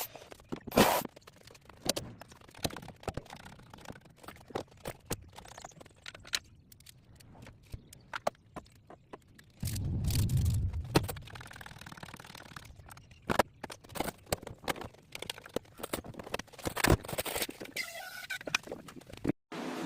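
Scattered sharp clicks and knocks, with a short low rumbling stretch about halfway through.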